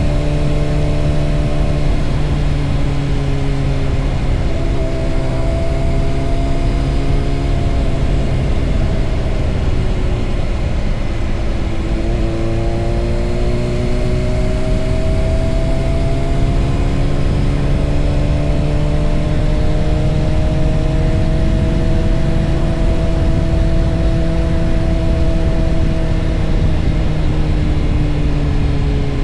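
Motorcycle engine running under way, its pitch sagging about ten seconds in, climbing again and then easing slowly, over a steady low rumble.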